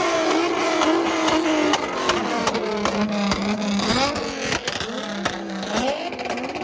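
Car engines revving at a car meet, their pitch repeatedly rising and falling, with a held steady note in the middle and sharp cracks throughout.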